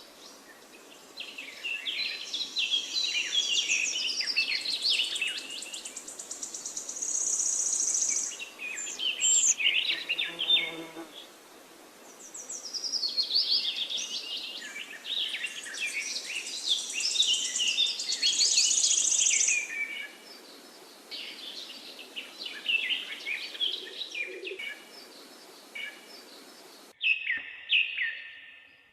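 Several songbirds singing in overlapping bursts of rapid chirps and trills, with short pauses between phrases and a sudden cut about two seconds before the end.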